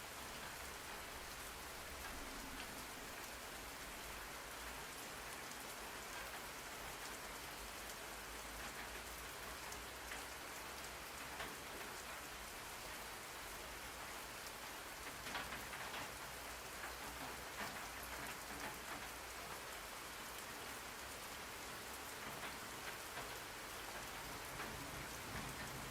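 Steady rain falling on a surface, a haze of drops pattering, with a few louder spells of heavier drops about halfway through and again near the end.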